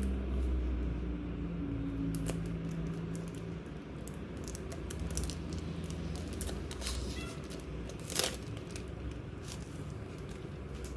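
Small clicks and brief rustles of stationery items and packaging being handled, the loudest a short scrape about eight seconds in, over a steady low hum.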